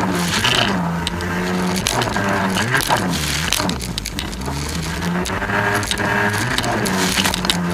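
Jet ski engine running, its pitch rising and falling repeatedly as the throttle changes, with many sharp ticks and knocks over it.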